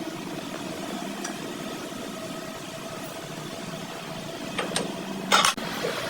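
A workshop machine running with a steady hum, with a couple of light ticks and then a short, louder metallic clatter near the end.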